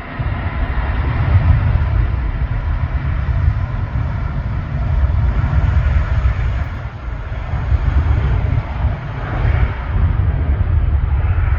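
Jet airliner engines running, a steady rushing noise, with wind buffeting the microphone in a constant low rumble.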